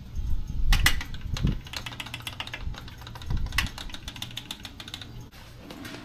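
Harley-Davidson Sportster 883's air-cooled V-twin idling warm for an oil-level check after an oil change, with a steady low rumble and quick mechanical ticking, and a few louder knocks in the first second and a half.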